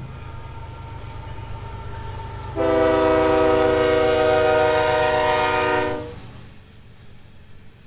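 Diesel freight locomotive sounding one long multi-chime air-horn blast of about three seconds over the steady rumble of its engine. The rumble fades off near the end.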